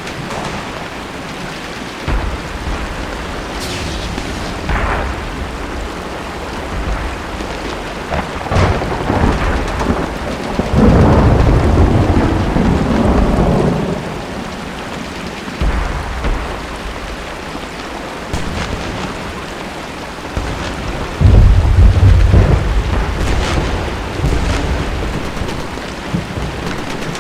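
Steady rain with thunder rolling in long low rumbles, the loudest building about 10 seconds in and another starting about 21 seconds in. A few faint sharp cracks sound over it.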